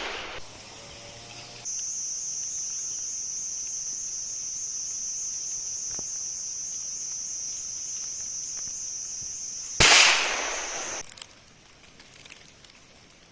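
Cicadas droning steadily in one high, even pitch. About ten seconds in, a single gunshot cracks out and echoes for about a second. The insects fall silent a moment later.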